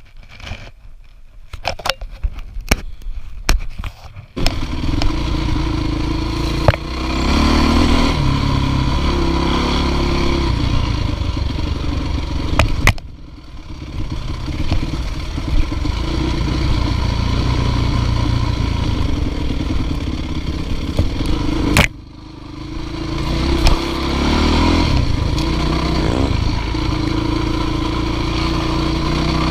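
A few knocks and clatters, then a dirt bike engine cuts in abruptly about four seconds in and keeps running and revving up and down, dropping off briefly twice.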